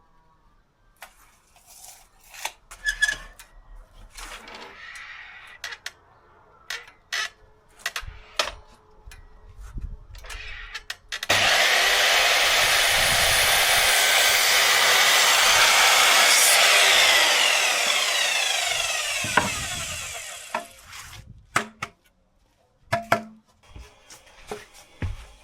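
Scattered knocks and clicks of wood being handled, then a power saw starts abruptly and cuts wood for about six seconds before winding down over several seconds. A few more knocks follow near the end.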